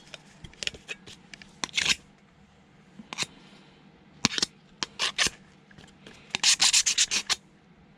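Hand tool working at a brown fibre board: short, sharp scratchy strokes, spaced out at first, then a quick run of about eight near the end.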